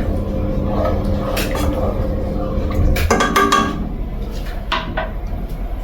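A metal utensil clinking and scraping against a cooking pot several times, loudest in a ringing cluster about three seconds in, over a steady low hum.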